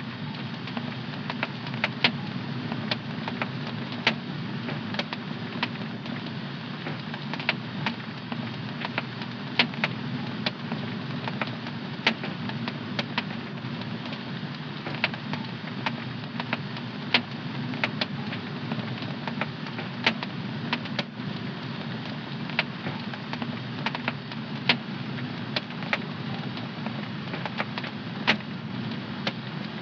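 Wood fire in a home fireplace crackling, with sharp irregular pops about once or twice a second over a steady low rush of the burning flames.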